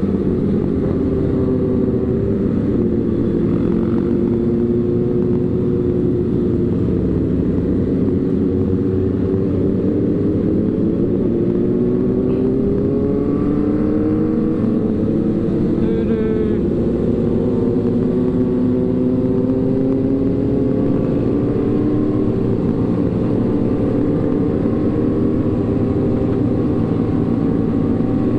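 Motorcycle engine running on the move, its pitch drifting slowly up and down with the throttle, over a steady low rumble.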